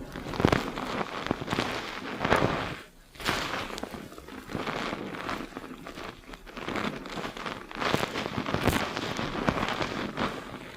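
Fingers rapidly scrubbing a shampoo-lathered scalp, the foam crackling in uneven strokes with a brief pause about three seconds in.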